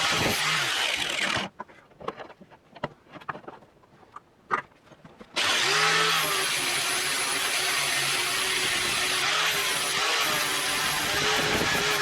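Handheld electric power tool running steadily. It stops about a second and a half in, leaving a few seconds of small taps and clicks, then spins back up a little after five seconds in and runs on steadily.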